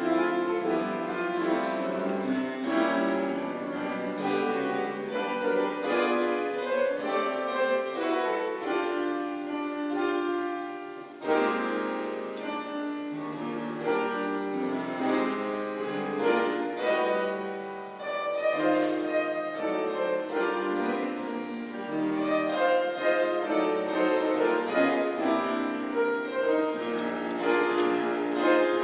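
Church organ playing sustained chords and a melody, with brief breaks about 11 and 18 seconds in.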